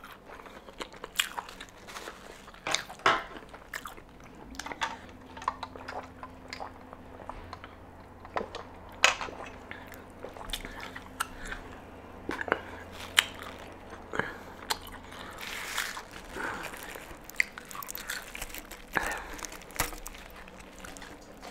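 Close-miked chewing of crispy fried chicken: irregular crunches and wet mouth clicks.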